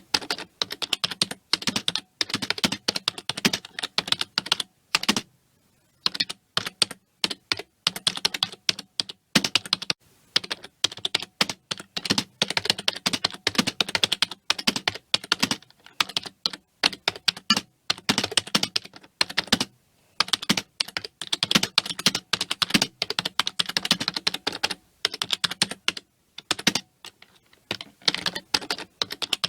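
Computer keyboard being typed on quickly and continuously: rapid runs of key clicks, broken by brief pauses every few seconds.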